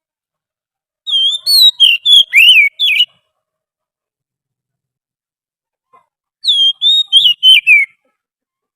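Oriental magpie-robin song, as played from a lure recording. Two phrases of clear whistled notes slide up and down: one begins about a second in and lasts two seconds, and a shorter one comes about six and a half seconds in.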